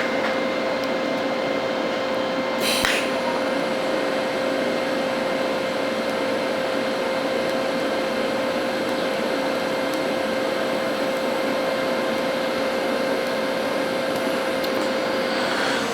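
TIG welding arc running on stainless steel at about 100 amps: a steady hiss with a constant whine, and a brief sharp crackle about three seconds in.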